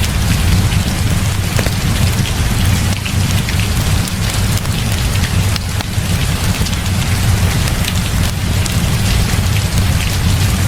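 Heavy rain falling steadily, with a strong low rumble underneath and scattered sharp ticks of drops.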